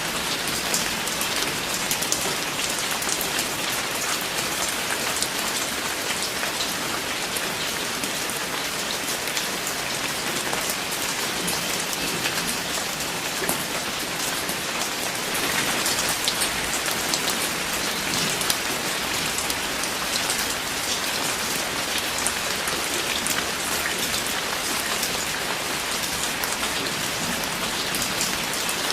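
Steady rain falling, many separate drops ticking on a surface over an even hiss.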